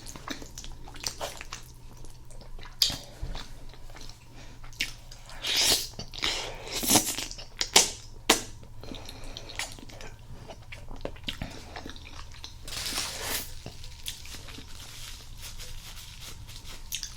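A person eating spaghetti with meat sauce and garlic bread close to the microphone: biting and chewing, with scattered wet mouth clicks and a few louder crunchy bites.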